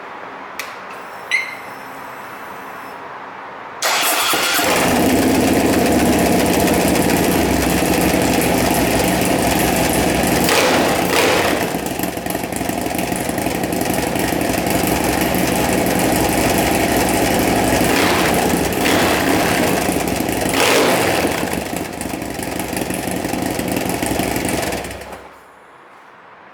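Harley-Davidson CVO Road King's 110-cubic-inch V-twin started up through a newly fitted D&D stubby cat exhaust. After a short click about a second in, the engine catches about four seconds in and runs loudly, with three brief rises in level. It is shut off near the end.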